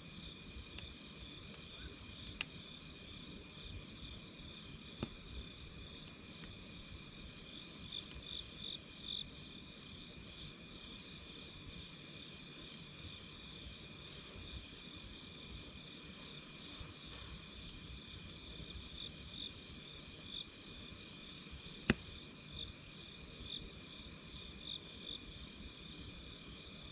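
Insects chirping steadily in two high pitches over a low rumble, with a few sharp pops from a crackling campfire, the loudest about three-quarters of the way through.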